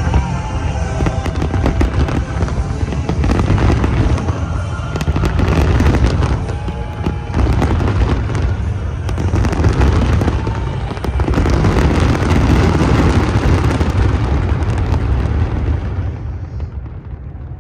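Fireworks display going off in a dense barrage of bangs and crackles over a continuous low rumble, with music playing underneath. The barrage thins out and the sound drops near the end.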